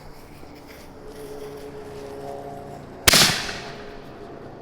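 A 5-inch canister firework shell launching: one sharp, loud boom about three seconds in as the lift charge fires it from the mortar tube, with a short echoing decay.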